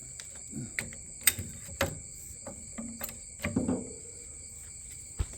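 Scattered metallic clicks and knocks of hand work on a utility vehicle's front suspension while it is jacked up, over a steady high chirring of crickets.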